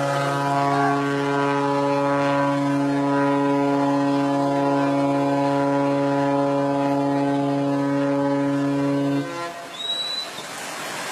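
Ship's horn sounding one long, steady blast that cuts off about nine seconds in, leaving wind and water noise.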